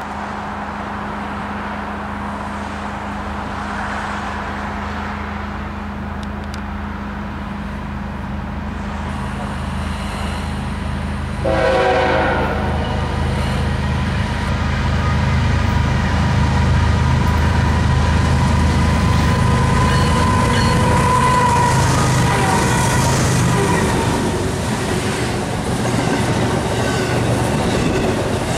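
A freight train hauled by several diesel locomotives approaching and passing. The engine rumble grows louder, a horn sounds briefly about twelve seconds in, then the wheels run on with a steady ringing and squealing.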